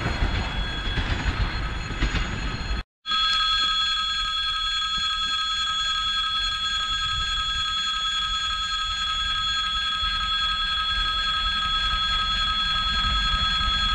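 Freight hopper wagons rolling past with a low rumble, cut off sharply about three seconds in. Then a steady ringing tone of a railway warning signal sounds continuously, over a low rumble that grows near the end as a 2ES4K electric locomotive approaches.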